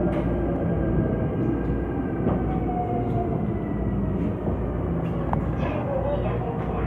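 Seoul Subway Line 5 train running, heard on board: a steady rumble of wheels and motors with faint short whining tones and occasional clicks.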